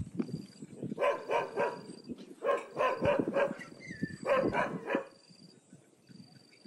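Dog barking in three quick runs of a few sharp barks each, the last run ending about five seconds in.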